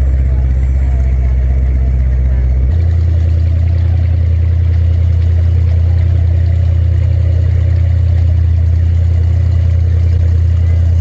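Supercharged speedboat engine running steadily with a deep, loud note; about a third of the way in the note shifts abruptly to a slightly higher, steady pitch.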